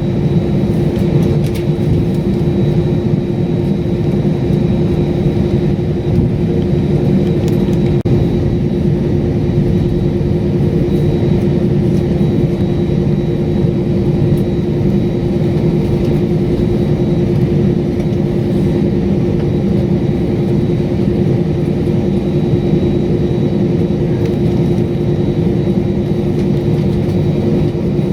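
Jet airliner engine noise inside the cabin: a loud, steady drone with a constant hum that does not change.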